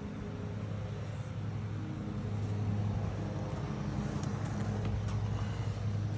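Lawn mower engine running steadily, growing a little louder about two seconds in.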